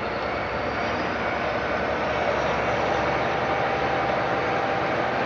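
Diesel train engine running, a steady mechanical drone that grows a little louder over the first couple of seconds and then holds.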